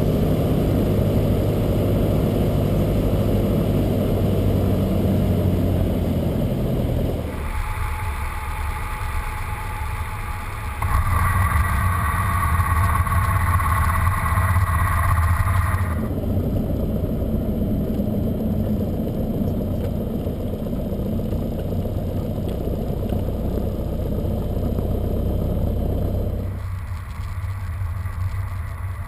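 Cessna 172's piston engine running steadily, its sound changing abruptly several times as separate clips follow one another.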